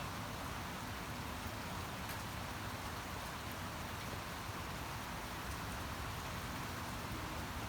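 Steady rain falling, an even hiss with a few scattered drops ticking.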